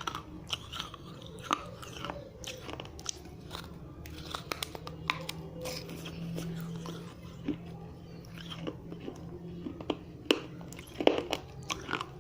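Dry fired red-clay diya being bitten and chewed close to the microphone: irregular sharp cracks and gritty crunches of the earthenware breaking between the teeth, with the loudest cracks near the end. A steady low hum runs underneath.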